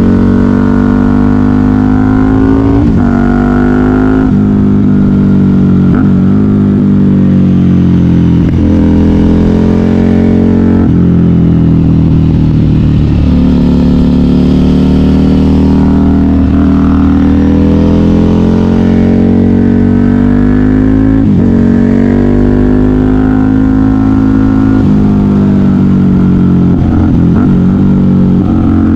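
KTM 990 Super Duke R's V-twin engine through a custom exhaust, under hard riding. The engine pitch climbs as the bike accelerates, then drops sharply several times as the rider shifts or shuts the throttle, with no break in the engine sound.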